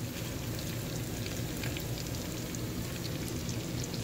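Smoked sausage and freshly added shredded cabbage sizzling in a stainless steel pot, a steady hiss with scattered crackles.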